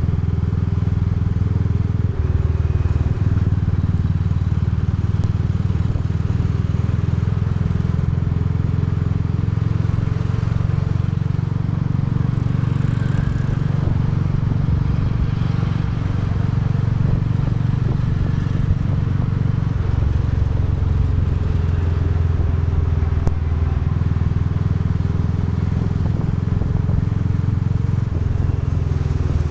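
Royal Enfield Bullet 350's single-cylinder engine and exhaust running steadily under way at cruising speed. The engine note shifts slightly about two seconds in and again about twenty seconds in.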